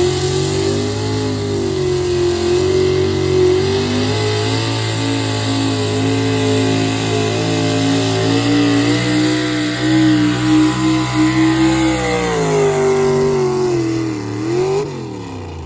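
Engine of a pulling vehicle run at high revs under heavy load for about twelve seconds, its pitch wavering as it fights the sled. It then drops as the throttle is let off, with one brief blip of revs before it dies away.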